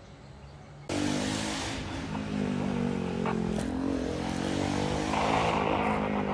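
Diesel locomotive engine running, starting abruptly about a second in as a steady low engine drone with a few sharp knocks.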